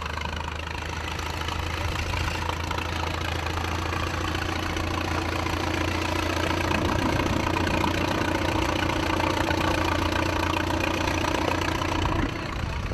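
Tractor engine idling, getting louder over the first several seconds and dropping off sharply near the end.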